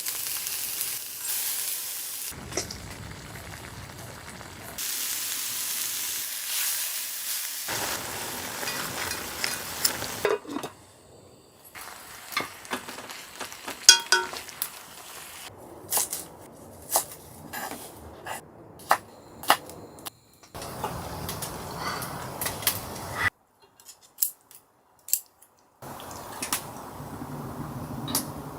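Food sizzling and frying, with sharp clinks and taps of utensils against pots and pans. The background changes abruptly several times, and there is a brief near-quiet gap about two-thirds of the way through.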